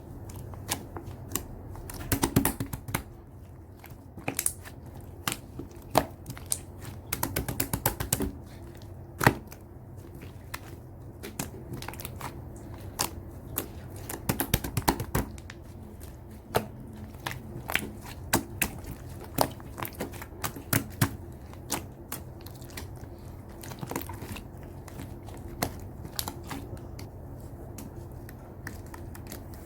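Slime being squeezed and poked by hand, giving scattered sharp pops and clicks, sometimes in quick clusters.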